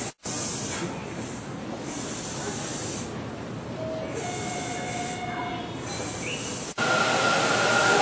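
A Hanshin commuter train standing at a station platform, with repeated bursts of air hiss over the station din. After a sudden cut near the end, an approaching train's running noise rises in level, with a steady high-pitched whine over it.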